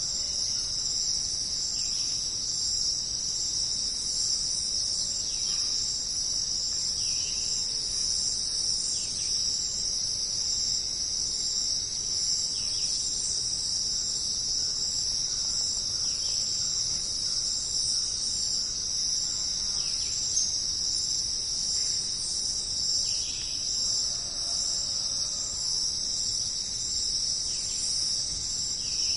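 A dense, steady chorus of jungle insects, one continuous high-pitched shrill, with a fainter short call repeating about every second or so underneath.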